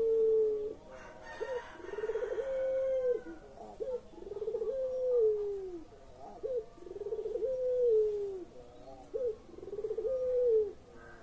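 Puter pelung dove cooing: five long, drawn-out coos about two seconds apart. Each opens with a short note and a rough, pulsing start, holds steady, then slides down in pitch at the end.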